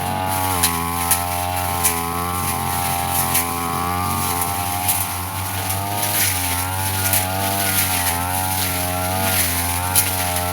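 Brush cutter engine running at high revs with its spinning blade cutting grass; the pitch dips and recovers again and again as the blade takes load, with scattered sharp ticks.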